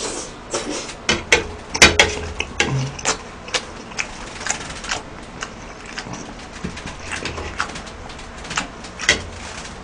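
Close-miked chewing of a mouthful of beef rice bowl: irregular wet mouth smacks and clicks, with a spoon scraping and clinking on the plate in the first couple of seconds.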